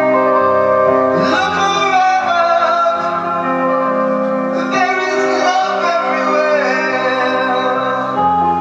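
A pop song with a woman singing over sustained keyboard and guitar chords, the vocal lines coming in about a second in and again around the middle.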